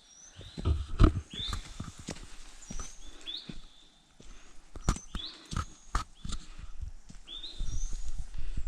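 A bird calling over and over, a short rising call with a higher note repeated about once a second. Over it are the knocks, crackles and footsteps of someone clambering through branches and undergrowth.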